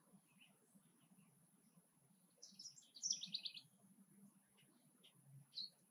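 A bird's high chirps, faint: a quick run of chirps about halfway through, then one short chirp near the end.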